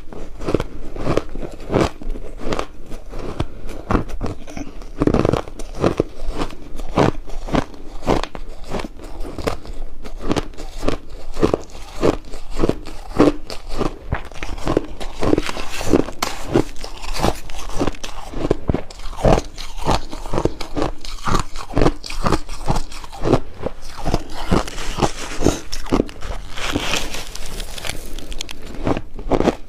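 Ice being bitten and crunched in the mouth, close to the microphone: a dense, continuous run of sharp crunches, several a second.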